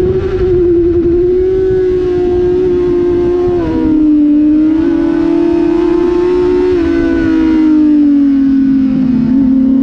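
Onboard sound of a 600-class inline-four sportbike engine held high in the revs at track speed: a steady high note that drops suddenly in pitch about four seconds in and again near seven seconds, sinks slowly and starts climbing again near the end. Wind rush runs underneath.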